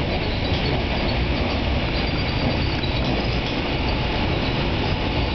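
Steady running noise of an NJ Transit Arrow III electric multiple-unit railcar at speed, heard inside the passenger cabin: a low rumble of wheels on rail with a steady hiss over it.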